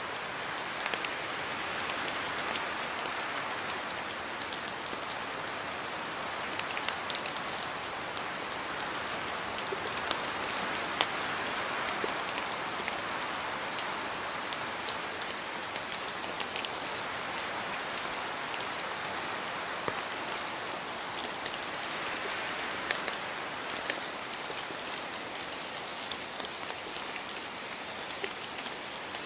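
Steady rain falling, with scattered sharp clicks of drops striking close by.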